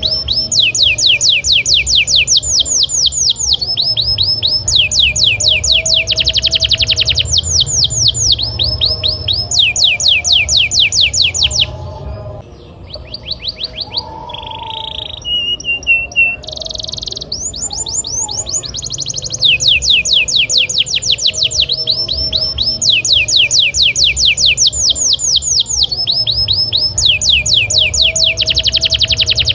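Domestic canary singing in long rapid trills: fast runs of repeated downward-sweeping whistled notes in phrases of a second or two. About halfway through, a short quieter pause breaks the trills with a few different notes.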